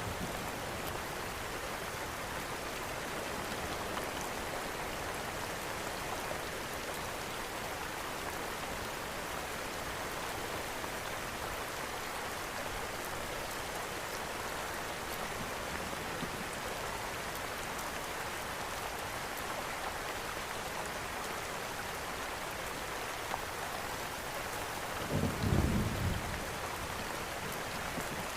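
Steady rain falling, an even hiss. Near the end comes one brief, low rumble of thunder.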